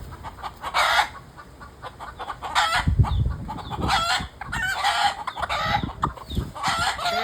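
A flock of domestic chickens calling noisily: roosters crowing and hens squawking and clucking in overlapping bursts about every second or two. A low thump comes about three seconds in.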